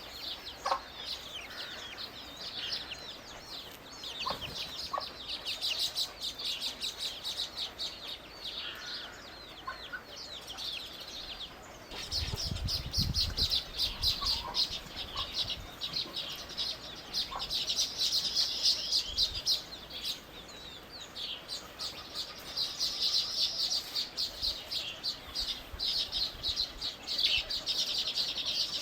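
Small birds chirping rapidly and continuously, many short high calls overlapping into a dense chatter that grows busier about halfway through, with a brief low rumble at that point.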